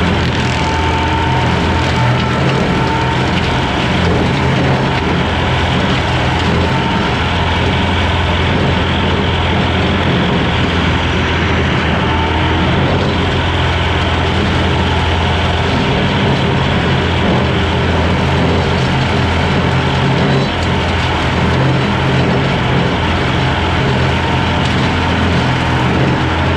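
Skid steer engine running steadily and loud, driving a brush hog mower attachment.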